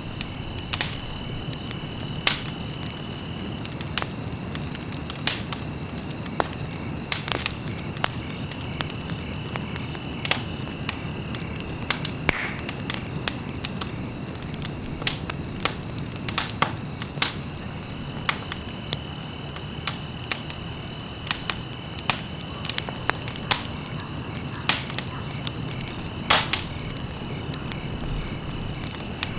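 Wood fire burning in a fireplace: a steady low rumble of flames with sharp, irregular crackles and pops, a few of them louder, one near the end.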